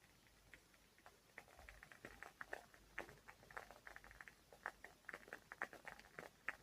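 Wooden-wick candle crackling faintly: irregular little pops and ticks like a tiny fireplace, growing more frequent after the first second or so.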